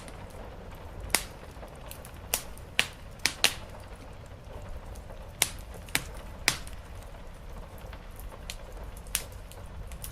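Wood fire crackling in a fireplace: sharp pops at uneven intervals over a steady low rumble of rain on the roof.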